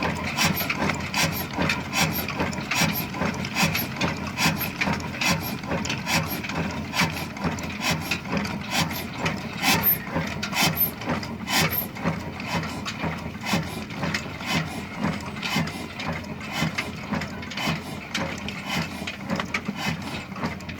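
Old stationary engine driving an atta chakki (stone flour mill), running steadily: a continuous mechanical clatter with regular knocks.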